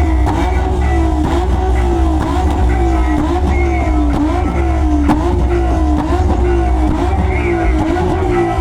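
A car engine revving up and dropping back over and over in quick, regular swells, over a heavy bass beat.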